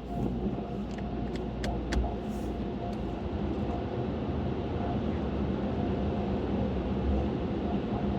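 A car running with a steady low rumble, and a few light clicks in the first couple of seconds.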